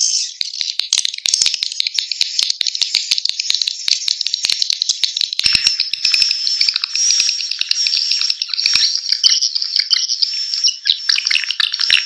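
Swiftlet lure-call recording: a dense, continuous twittering and chirping of swiftlets, packed with rapid clicks, with a steady high whistle joining about halfway through. It is the kind of call track played through tweeters to draw swiftlets into a nesting house.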